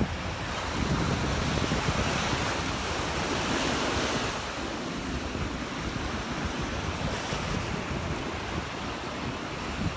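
Surf breaking and washing up on a sandy beach, a wave swelling about two to four seconds in, with wind rumbling on the phone's microphone.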